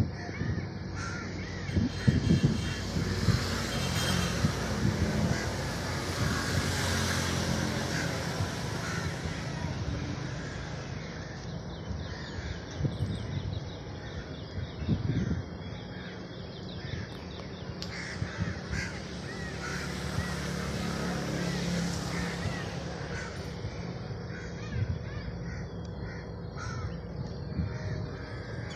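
Birds calling again and again, crow-like caws among them, over a steady outdoor background noise.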